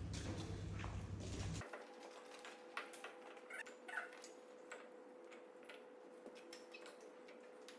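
Wood fire in a fireplace crackling with scattered sharp clicks and ticks over a faint steady hum. A low rumble cuts off abruptly about a second and a half in, and a few short call-like sounds come three to four seconds in.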